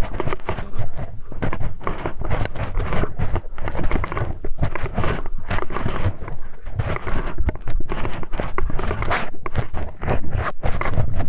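Close-miked scraping, rubbing and clicking of a metal hex key worked against a binaural microphone's ear, a dense crackling texture with many small clicks that goes on without a break.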